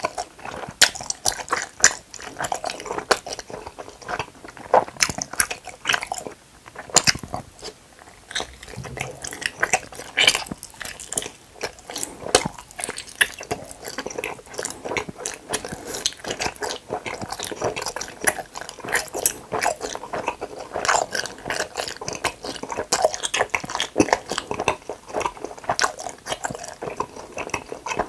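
Close-miked chewing and biting of hamburger-shaped gummy candy: an irregular run of short mouth clicks and chews that continues throughout, with no talking.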